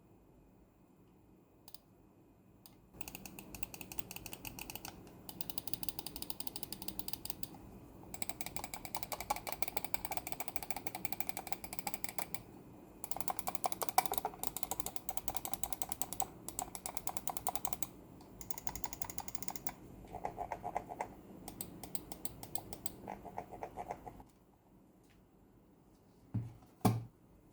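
Incott GHERO Pro gaming mouse clicking rapidly in several bursts, each a dense run of crisp clicks, then two single clicks near the end.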